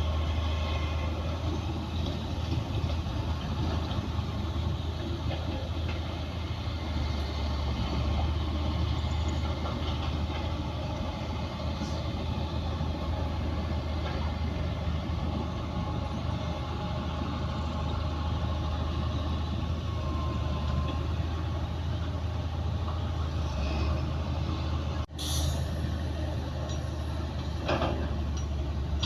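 Heavy diesel engines of a bulldozer and dump trucks running steadily with a deep hum, with a brief dropout about 25 seconds in and a few knocks near the end.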